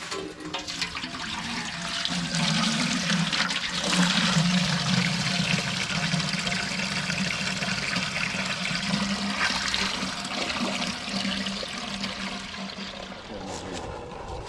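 Water rushing and splashing as it fills a poultry scalder pot, starting about half a second in and running on steadily.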